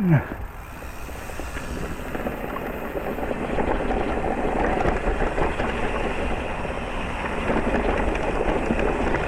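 Steady rushing noise and low rumble of an electric mountain bike ride over a rough valley trail, with wind on the microphone and tyres on the ground. It grows louder from about three seconds in as the bike speeds up. A short falling squeal comes right at the start.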